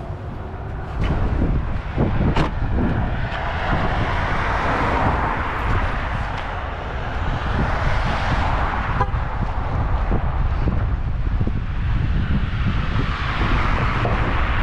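Road noise from a moving truck: a steady low rumble with a tyre-and-wind hiss that swells and fades several times.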